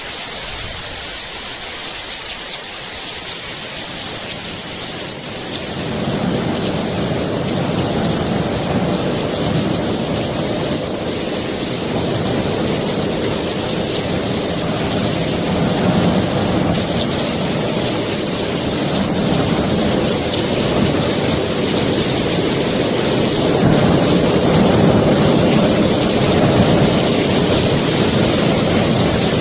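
Heavy rain falling in a steady hiss. About six seconds in, a long low rumble of rolling thunder joins it, swelling and easing twice.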